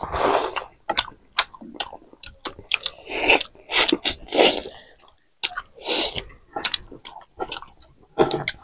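Chewing of mouthfuls of chicken and sweet corn eaten by hand, with irregular mouth clicks and smacks, from two people eating together.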